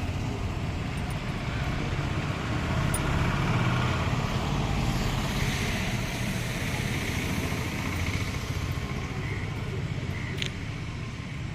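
A vehicle running with a steady, loud rumble and a few faint clicks.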